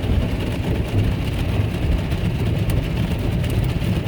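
Automatic car wash running, heard from inside the car: a steady low rumble with a noisy hiss over it, and a faint high patter that starts about two-thirds of the way in.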